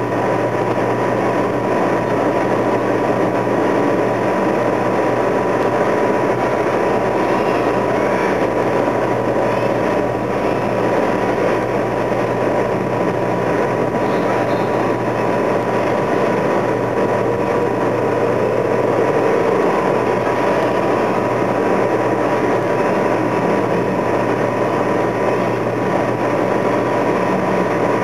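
Steady, loud vehicle engine and traffic noise with a thin, constant whine over it.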